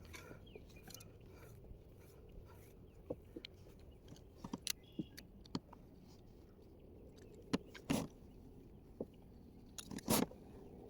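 Irregular small clicks and light knocks, with two louder knocks near the end, over a low steady rumble.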